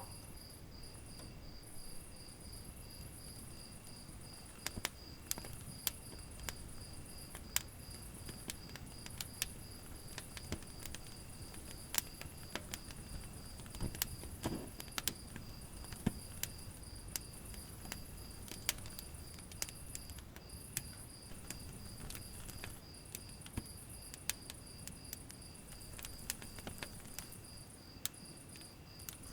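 Wood fire crackling with frequent sharp pops and a low steady rumble, over a cricket chirping in a steady high pulsing trill.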